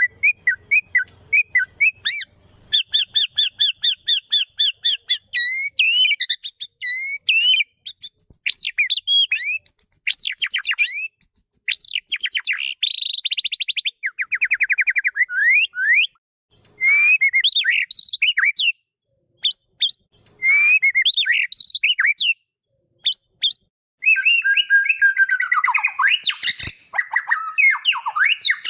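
White-rumped shama (murai batu) singing a varied song of rapid repeated notes, rising and falling whistles and fast trills, broken by a couple of short pauses past the middle and ending in a denser, harsher run of calls.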